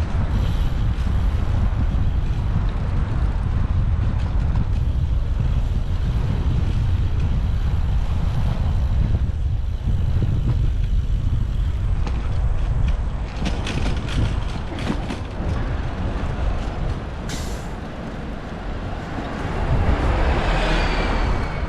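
Heavy wind buffeting and road rumble on a bicycle-mounted action camera riding through city traffic. A sharp click comes about two-thirds of the way through, and near the end a louder passing vehicle gives a squeal that falls in pitch.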